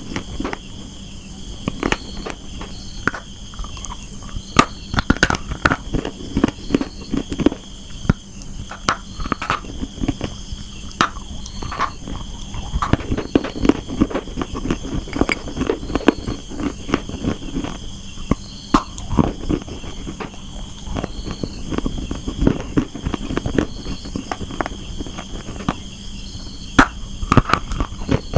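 Someone biting and chewing dry, hard clay, slate pencil and multani mitti: a steady run of sharp, irregular crunches and crackles, several a second.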